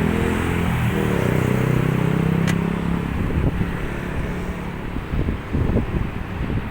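Electric tram of the FGV 4200 series running past, its traction motors giving a steady low hum with slightly shifting pitch that fades after about three seconds into a low rumble with wind on the microphone. A single sharp click about halfway through.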